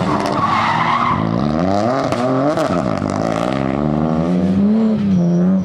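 Rally car engine at high revs, its pitch climbing and dropping sharply several times through throttle lifts and gear changes, with tyres skidding.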